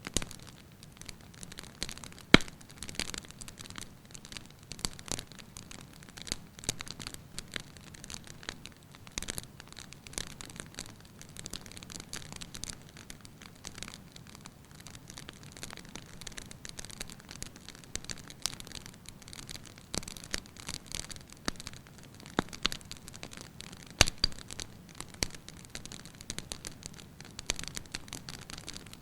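Firewood burning in a fireplace, crackling with irregular small pops over a soft hiss. Two sharper snaps stand out, one about two seconds in and another later on.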